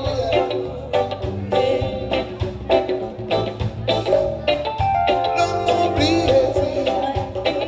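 Live band music with a steady beat: drums, bass and melody instruments playing.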